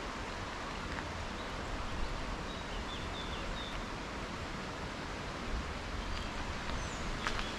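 Outdoor ambience: a steady, even rush of noise, with a few short high bird chirps about three seconds in and a couple of sharp clicks near the end.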